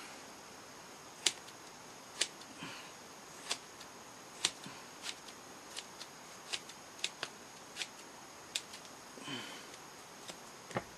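Scissors snipping through a foam puppet head's brow: a string of sharp, separate snips at an uneven pace, about one or two a second, as the foam is trimmed down.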